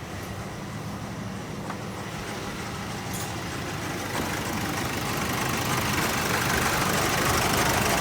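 Nissan Navara engine idling with the A/C switched on, a steady low hum under a rushing noise that grows steadily louder.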